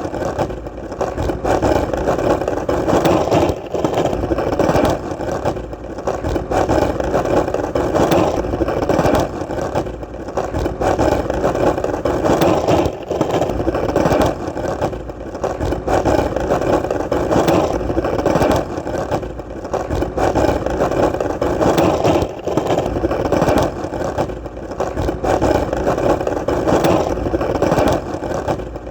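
Skateboard wheels rolling over hard pavement: a steady, loud rumbling roll that swells and eases every few seconds, with small clicks as the wheels pass over cracks and joints.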